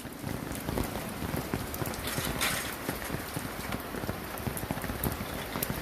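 Rain falling, a dense patter of drops striking hard surfaces, with a brief louder gust of splashing about two seconds in.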